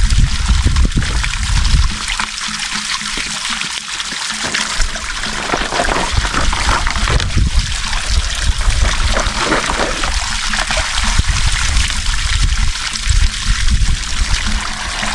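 Water running from a free-flowing village tap and pouring into a folding plastic jerrycan as it fills.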